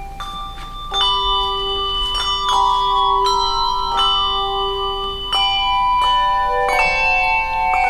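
Bells ringing a tune: pitched notes struck one after another, each ringing on and overlapping the next.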